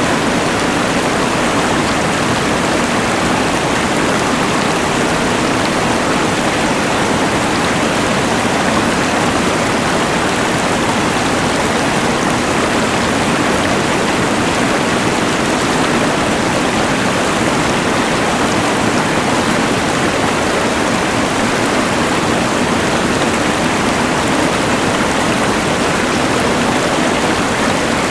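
Rushing mountain river mixed with the steady hiss of a LectroFan white noise machine: a constant, unchanging wash of water noise.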